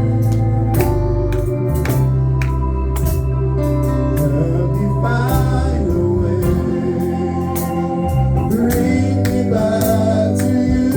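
Live gospel worship music: organ chords with a singing voice and a steady beat of drums or percussion.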